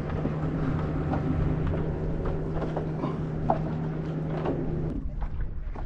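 Steady motor hum at one low pitch that cuts off suddenly about five seconds in.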